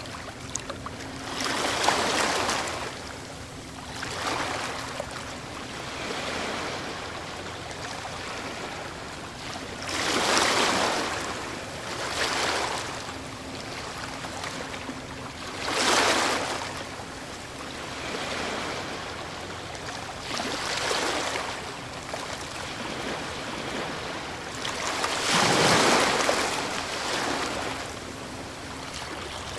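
Ocean waves breaking on a shore: a steady wash that swells into a rushing surge every few seconds, with the biggest breakers about ten, sixteen and twenty-six seconds in.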